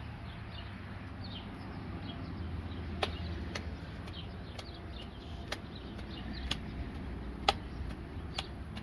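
Small birds chirping faintly over a steady low outdoor rumble, with about six sharp clicks or taps scattered through, the loudest near the end.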